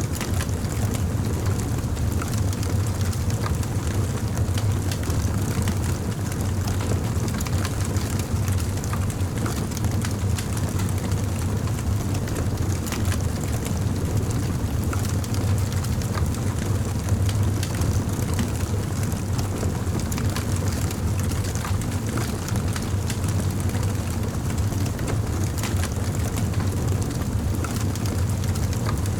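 Campfire burning: a steady low rumble with frequent small crackles and pops.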